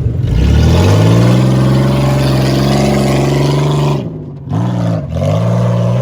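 Oldsmobile car's engine revving hard under load as it tries to climb a steep rutted hill, rising over the first second and held at high revs. About four seconds in the revs drop, blip briefly, then climb and hold again.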